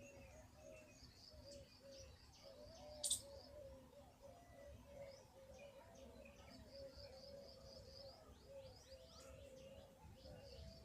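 Faint, continuous cooing of pigeons in a run of short warbling phrases, with small birds chirping high above. A single brief sharp high note stands out about three seconds in.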